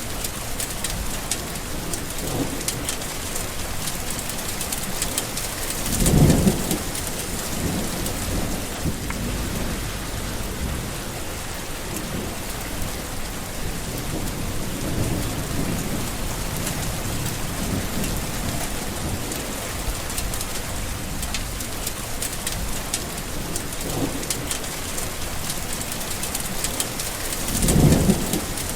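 Steady heavy rain with rolling thunder; two louder thunder rumbles swell up about six seconds in and near the end, with fainter rumbles between.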